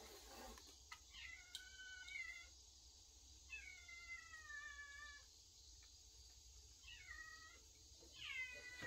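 A kitten meowing: four high, drawn-out meows of about a second each, the last running on past the end.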